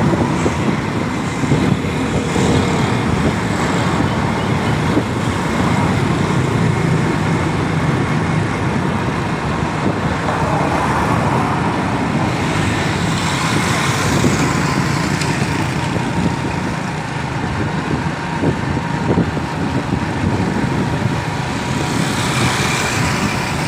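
Steady road traffic noise of motor vehicles running.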